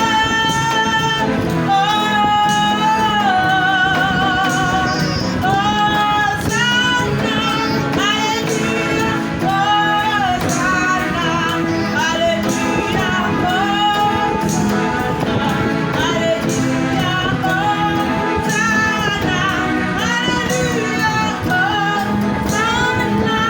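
Song with a high voice singing held, wavering notes over steady instrumental accompaniment.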